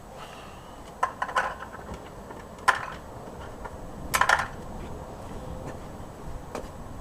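Metal tools and parts clinking and clattering in three short bouts: about a second in, near three seconds, and about four seconds in. A steady low background rumble runs underneath.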